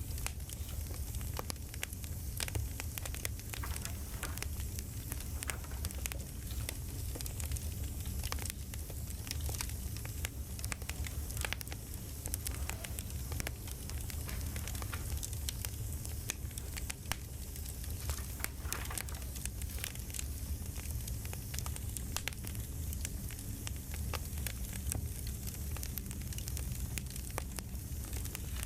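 Campfire ambience: a wood fire crackling and popping over a steady low rumble.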